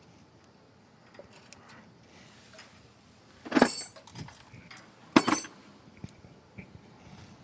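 Two short bursts of metallic rattling and clinking, about a second and a half apart, as small carburetor parts are handled.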